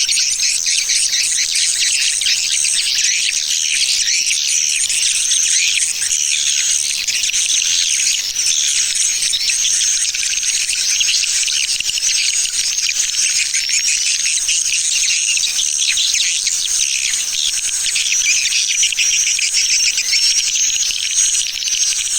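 Swiftlet lure call recording of the 'tarik' type: a dense, unbroken chorus of many swiftlets twittering in high chirps. Near the end a quick run of repeated rising chirps stands out.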